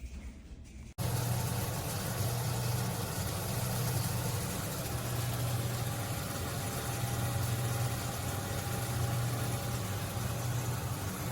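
Air fryer toaster oven running: its convection fan blows with a steady low hum, starting abruptly about a second in.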